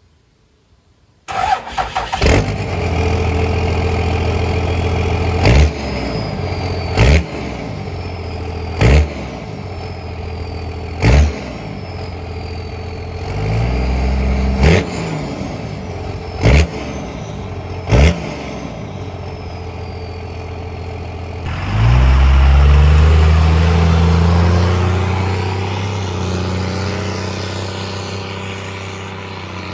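Diesel truck engine through a 4-inch exhaust, cranking and catching about a second in, then idling. It is blipped in a series of short revs, with a high falling whine after several of them. Near the end a longer, bigger rev slowly fades away.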